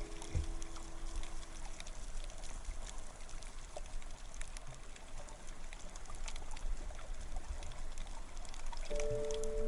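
Water sound picked up by a snorkeller's camera: a steady hiss with many scattered small clicks and crackles. The tail of the background music fades in the first second or so, and music comes back in near the end.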